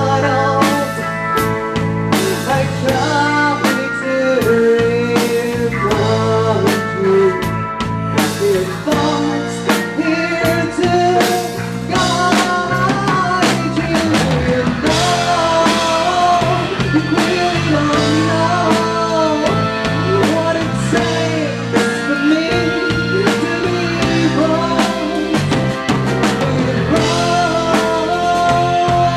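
Rock band playing live, drum kit and instruments in an instrumental passage of a song.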